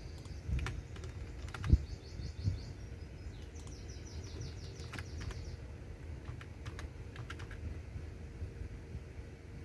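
Computer keyboard typing in slow, irregular keystrokes, with soft low thumps among the clicks. A bird trills rapidly twice in the background during the first half.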